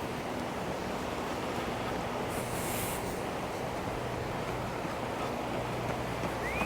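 Steady wash of sea surf breaking on the beach, with a faint low hum beneath and a short high chirp near the end.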